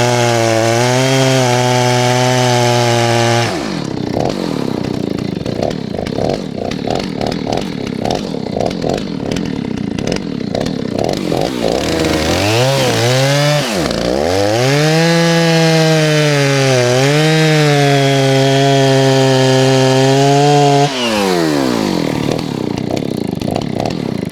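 Stihl 039 two-stroke chainsaw held at high revs, then dropping about 3.5 seconds in to a rough, pulsing low-speed run, revving back up with a deep sag near the middle, holding high again and winding down to a stop near the end. The uneven running is a problem the owner cannot pin down and says the saw needs tinkering for.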